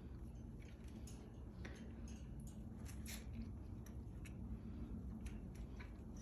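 Faint, irregular clicks and taps from cockatiels moving about and pecking, about a dozen spread unevenly, over a steady low hum.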